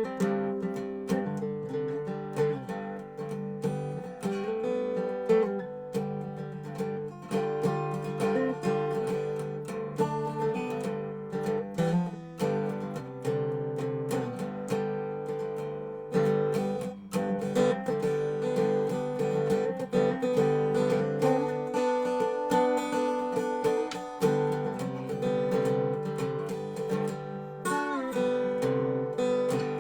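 Dobro resonator guitar played blues-style with plucked, ringing notes and some strummed passages. The notes glide in pitch near the end.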